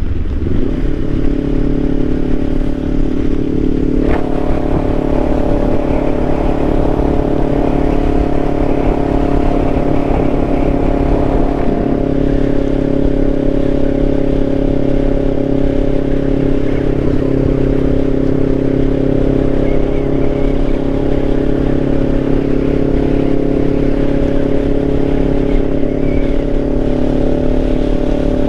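Kawasaki Ninja 500's parallel-twin engine running at a steady engine speed while the motorcycle is ridden, with a short click about four seconds in.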